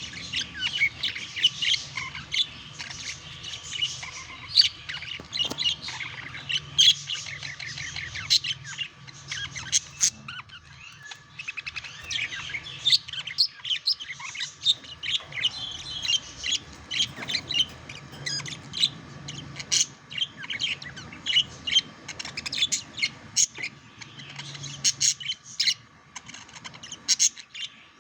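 Budgerigars chattering and warbling in a quick, continuous run of short chirps and squawks, with a faint steady hum underneath.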